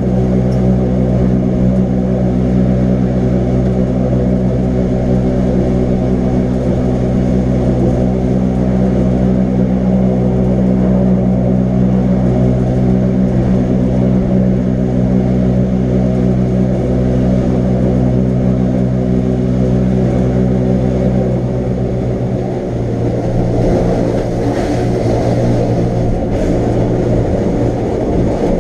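Electric rack-railway train running, a loud steady hum of its motors made of several low steady tones. About three-quarters of the way through, the lowest tones drop away and the hum changes.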